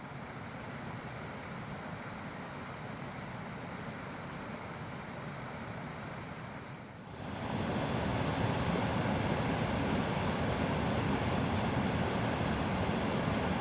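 Rushing water of a river and waterfall, a steady noise with no pitch; about seven seconds in it jumps louder and fuller and holds there.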